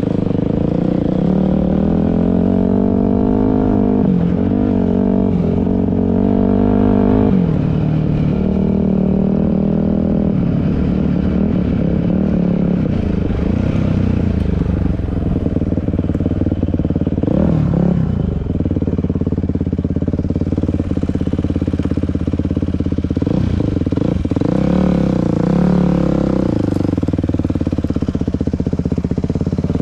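Dirt bike engine running under way, its pitch rising and falling as the throttle is worked, with a sharp drop about seven seconds in.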